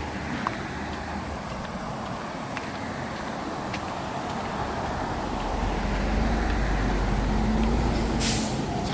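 Road traffic: a motor vehicle approaches and passes, its low engine hum growing louder from about halfway through, with a short sharp hiss near the end.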